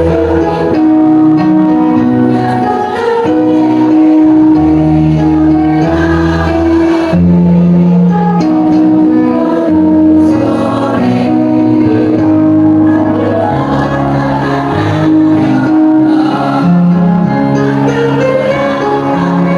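Choir singing in several parts, holding long notes in chords that move together.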